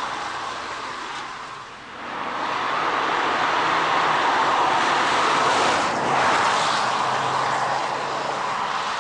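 Ford Mondeo 2.5T with its five-cylinder turbo engine on the move: a steady hiss of tyre and wind noise with a faint engine hum. It fades briefly about two seconds in, then swells again.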